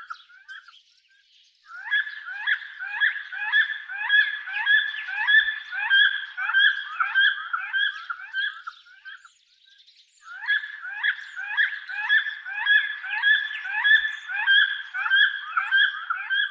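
Eagle calling: a long series of short, high, piping notes, about two a second. The notes come in two runs with a break of about a second between them.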